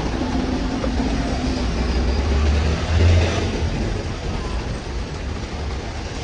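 Wet city traffic in the rain: a steady hiss of rain and tyres on wet pavement, with the low engine rumble of a passing vehicle that swells about two to three seconds in and then fades.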